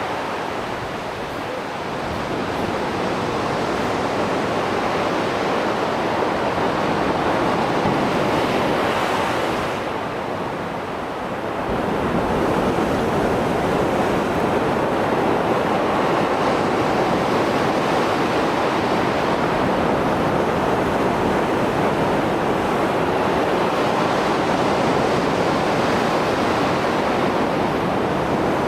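Heavy surf from Mediterranean Sea waves after a storm: a continuous wash of breaking waves that eases briefly about ten seconds in, then swells again.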